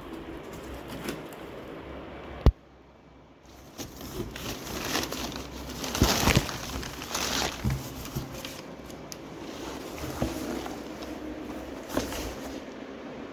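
A cat playing: rustling and crinkling scuffles, with a single sharp click about two and a half seconds in and louder bursts of scuffling around the middle.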